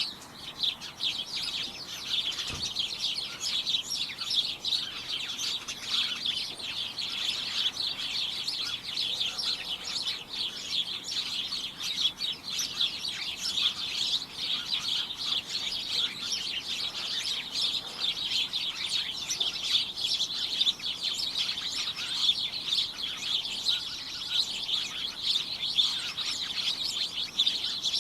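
A flock of small birds chirping all at once: a dense, continuous chatter of rapid high chirps that never lets up.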